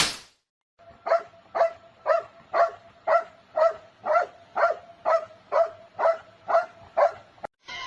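A dog barking in a steady rhythm, about two barks a second, thirteen in a row, after a short sharp sound at the very start.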